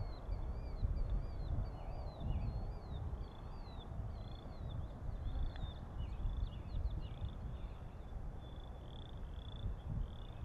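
Small wild animal calling: short high chirps repeat about twice a second, giving way to longer, steadier high notes in the second half, over a low wind rumble on the microphone.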